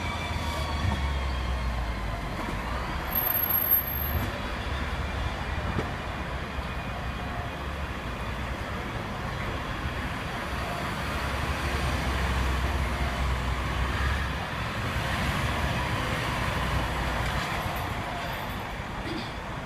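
Hong Kong double-decker electric tram under way, heard from inside the car: a steady rumble of the car on its rails, with a low hum that fades out about four seconds in and returns for the middle stretch.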